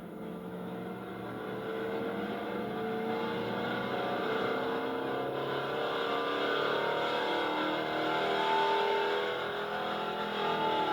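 Modified gasoline pulling truck's engine running hard, its pitch climbing steadily for several seconds and getting louder, then easing slightly near the end.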